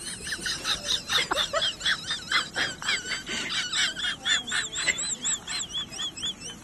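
Rapid, high-pitched chirping calls from a small animal, short wavering notes repeating about three or four times a second.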